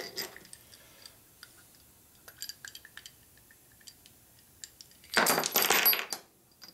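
Metal engine parts and tools clinking lightly on a workbench, then about a second of dense metallic clattering.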